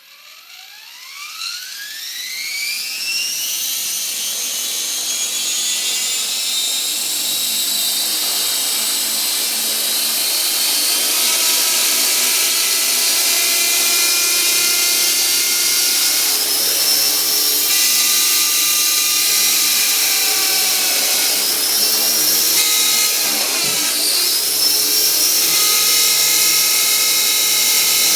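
Align T-Rex 450 Pro electric RC helicopter spooling up, its high whine rising steeply in pitch over the first few seconds, then running steadily at speed, with a brief dip in pitch a few seconds before the end. The owner finds the noise abnormal.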